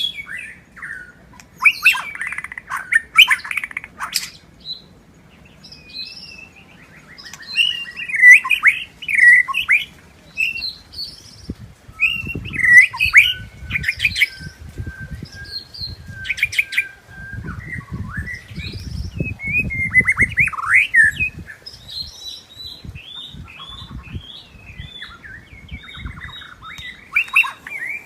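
White-rumped shama singing: a run of varied whistled, trilled and chattering phrases with short pauses between them. A low rumble sits underneath for a few seconds, twice, around the middle.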